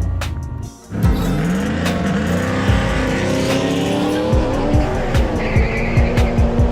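Drag race car engines accelerating hard, their pitch rising, with music underneath. The sound breaks off briefly about a second in, then comes back.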